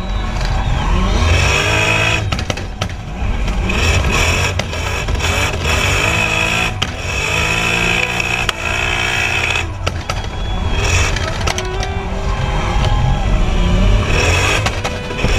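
Drift car engine revving hard, its pitch surging up and falling back again and again as the car slides, with tyre squeal over it.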